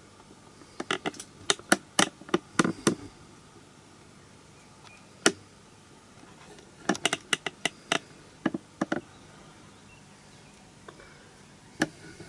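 Sharp clicks and light knocks in short, irregular clusters, with faint room tone between them.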